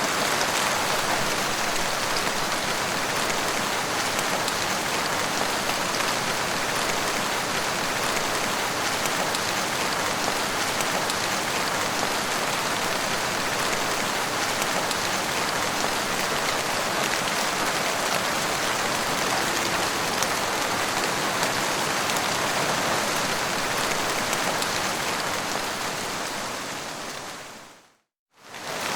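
Steady heavy rain falling, a dense even hiss of drops. Near the end it fades out to a moment of silence and then starts again.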